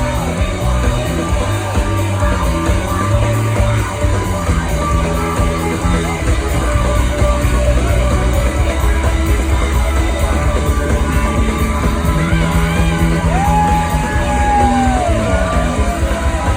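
Live funk rock band playing loud, with heavy bass and drums. A long held note bends down in pitch about fourteen seconds in.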